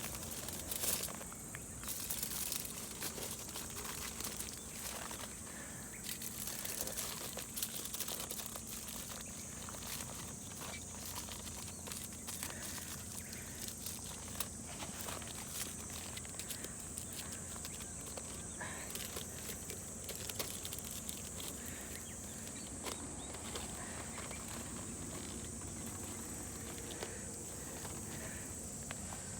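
Wood fire in a bonfire stand crackling, with irregular sharp pops and snaps, over a steady high-pitched drone of insects.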